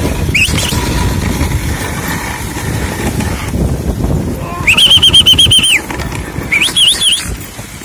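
Dog sled moving off over snow with a rough noisy rush from the runners and the team. High-pitched whining cries from the excited sled dogs come about five seconds in and again shortly after, one long and one wavering.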